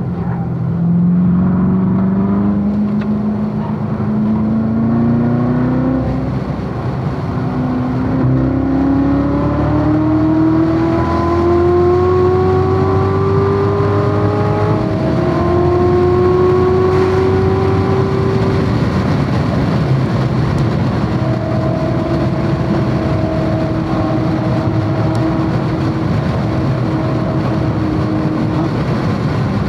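Chevrolet Corvette C7 Z06's supercharged 6.2-litre V8 under hard acceleration on a race track, its pitch climbing in long pulls with a sharp drop about fifteen seconds in, then holding a steadier, lower note in the last third, over a steady rush of wind and tyre noise.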